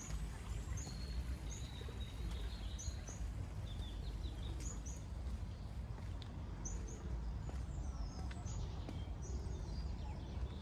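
Small birds chirping in short repeated high calls, several dropping in pitch, over a steady low rumble.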